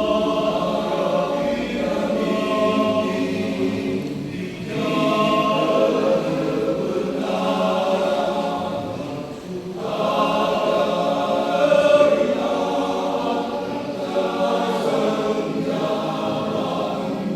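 Men's choir singing a hymn in sustained, full chords, with brief breaks between phrases about four and a half and ten seconds in.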